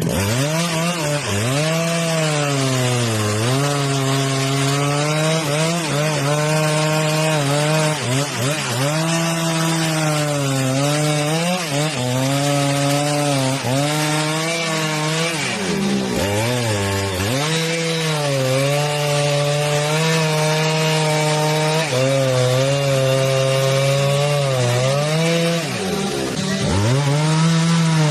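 Chainsaw cutting wood at high revs, its engine pitch sagging as the chain bites under load and rising again, over and over.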